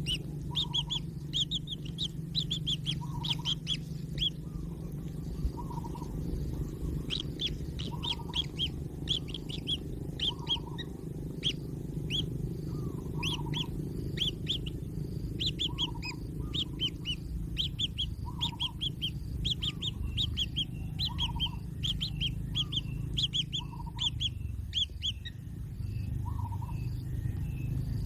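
Birds chirping in quick runs of short, high notes, with a lower call repeating about every two seconds and a steady low hum underneath.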